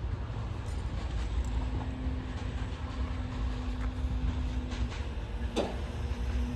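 A CrossCountry Voyager diesel-electric multiple unit pair running at the platform, with a steady low engine rumble and a steady hum that fades out and comes back. A short falling squeal comes about five and a half seconds in.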